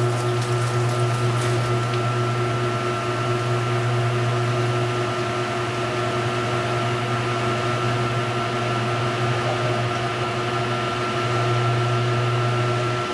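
Speed Queen top-load washing machine running mid-cycle: a steady low motor hum with a few constant tones over it, and the hum cuts off right at the end.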